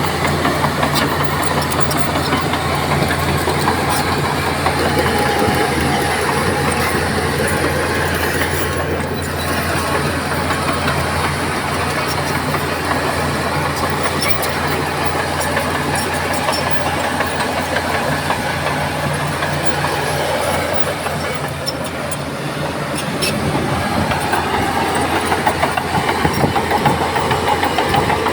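Heavy diesel earthmoving machinery running, with a steady low engine drone under a constant metallic rattle and clank. About three quarters of the way in the low drone fades, and a different engine note rises near the end.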